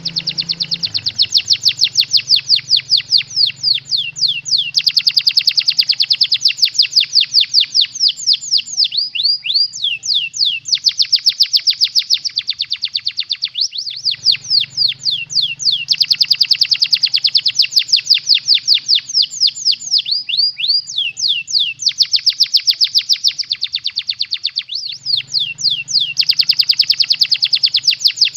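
Canary singing a long, rapid trill of sharp falling notes in a lovebird-like pattern, broken by short pauses every few seconds. A low steady hum runs underneath.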